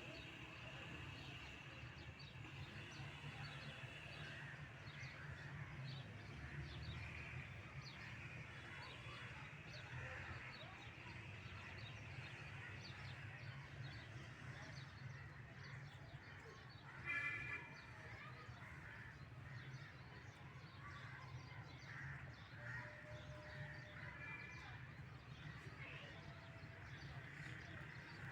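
Quiet outdoor ambience with many birds chirping over a steady low hum. One louder, harsh bird call stands out about two-thirds of the way through.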